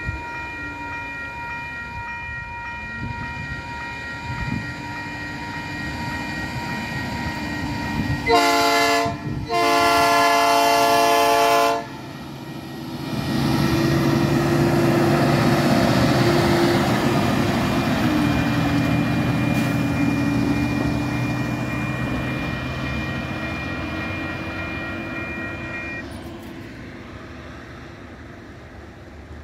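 Diesel freight locomotive's multi-chime air horn sounds a short blast and then a longer one. The train's engines and rolling cars then pass loudly and fade away.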